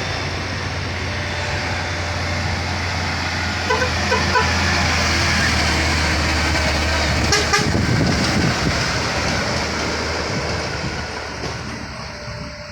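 Heavy tronton truck's diesel engine labouring steadily up a steep grade, with a few short horn toots about four seconds in and a sharp burst of noise about halfway through, after which the engine drone eases off and fades.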